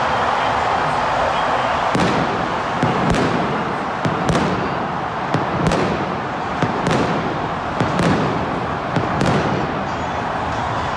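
Large stadium crowd cheering in celebration. A run of about a dozen sharp bangs cuts through from about two seconds in until shortly before the end.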